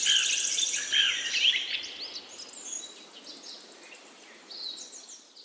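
Small birds chirping and twittering in short, quick calls over outdoor ambience. A fast, high-pitched pulsing trill runs under them and fades out about two seconds in. The chirps grow fainter toward the end.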